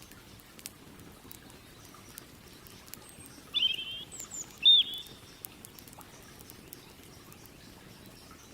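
A bird calling twice, a short warbling call about three and a half seconds in and a louder one a second later, over a steady river rush and the scattered small crackles of a campfire.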